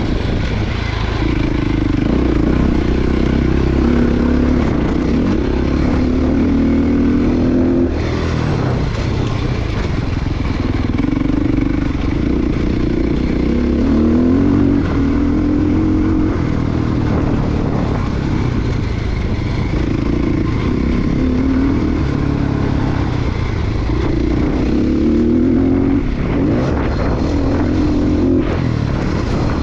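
Dirt bike engine being ridden hard on a motocross track, revving up and dropping back again and again as the rider works through the throttle.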